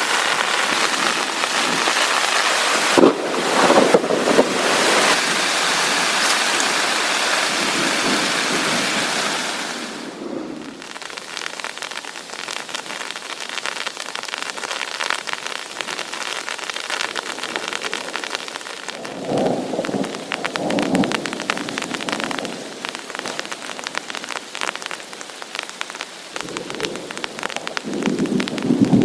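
Heavy rain falling in a dense, steady hiss that eases about ten seconds in to a lighter patter of distinct drops. Rumbles of thunder come through several times: early on, about twenty seconds in, and again near the end.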